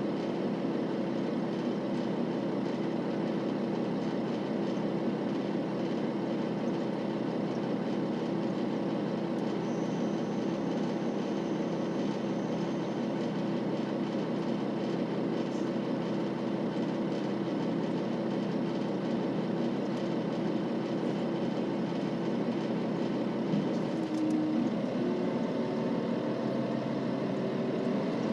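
KiHa 40 series diesel railcar's engine idling steadily, heard from inside the car. Near the end its pitch begins to rise as the engine is throttled up.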